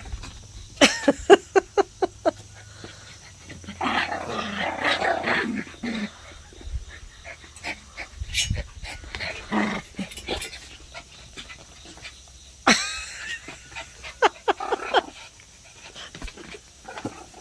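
A dog barking in several quick runs of short calls, with a longer, noisier stretch of sound between the first two runs.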